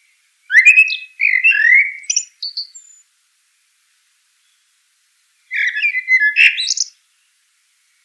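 A songbird sings two short phrases, the first about half a second in and the second about five and a half seconds in. Each phrase is a quick run of sliding whistled notes, with silence between them.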